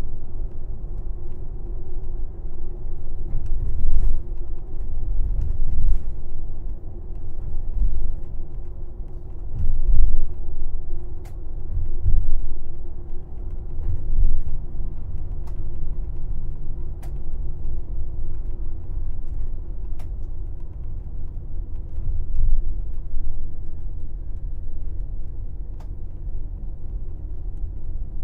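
Interior of a moving airport limousine coach: a steady low engine and road rumble that swells and eases unevenly, with a few faint clicks.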